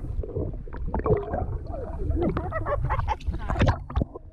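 Otters calling in a run of short, wavering chirps and squeaks, densest from about a second in to near the end.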